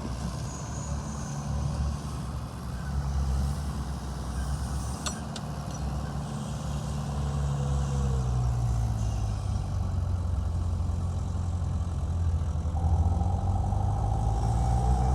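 Heavy diesel engine of earthmoving machinery (bulldozer or dump truck) running steadily, its pitch shifting downward about halfway through. A faint whine joins near the end.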